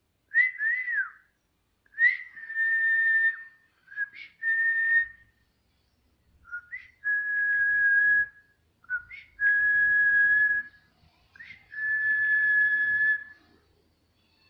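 Whistling in six phrases with short gaps between them. Each phrase starts with a quick upward chirp, and most then hold a steady, level whistled note for about a second.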